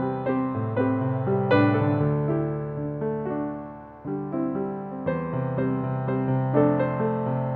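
Background piano music: a slow, gentle melody over sustained low notes, fading about four seconds in before a new phrase begins.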